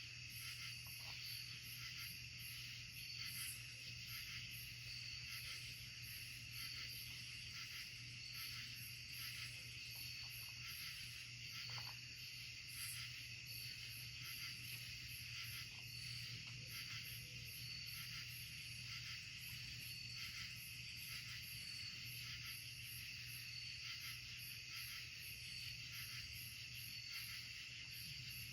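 Night insect chorus in the woods: a steady high-pitched trilling with an even pulsing rhythm of a few pulses a second, over a low steady hum.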